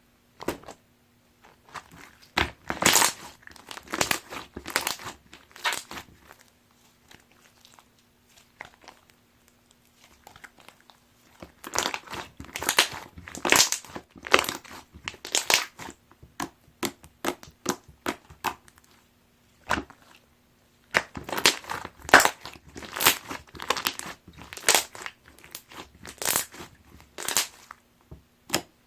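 Pudding-textured strawberry-milk slime being squeezed and pressed by hand, giving wet crackling pops and clicks in three bursts with short pauses between.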